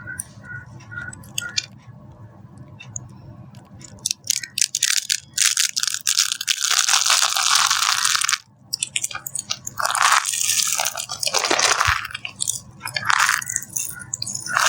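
Dry soap being crushed, crunching and crackling. A few faint ticks at first, then the crunching starts about four seconds in and comes in runs, the longest one a little past the middle.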